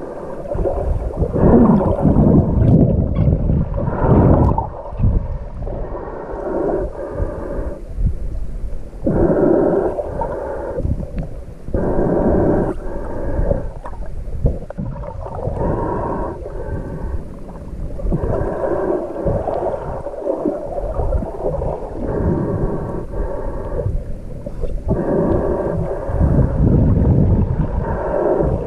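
Muffled underwater sound from a snorkeler: breathing through a snorkel in swells roughly every three seconds, over water sloshing and rumbling against the camera.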